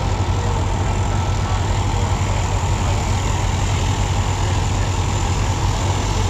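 An engine running steadily at an even speed, with a deep hum.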